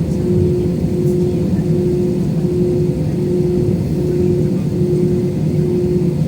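Airliner engine noise heard inside the passenger cabin around takeoff: a loud, steady low drone with a tone that beats on and off a little more than once a second.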